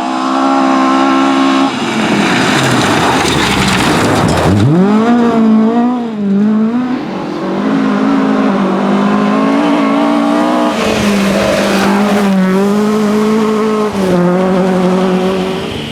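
Historic rally car's engine revving hard at full throttle, with a rush of tyre noise about two seconds in. The revs drop sharply and climb again about four seconds in, then rise and fall through several changes.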